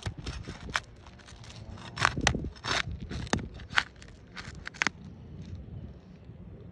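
Irregular crackling and scraping as an asphalt shingle tab is pried loose from its sealant strip, with the sealant tearing away. The crackles are densest in the first few seconds and thin out near the end.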